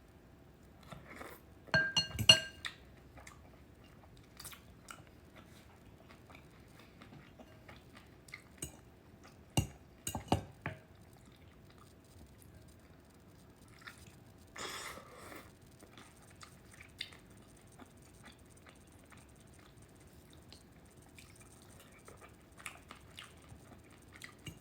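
Eating dumplings from a bowl with a spoon: the spoon clinks against the bowl, with chewing and small mouth sounds between. A loud ringing clink comes about two seconds in, and a few sharp knocks come around ten seconds in.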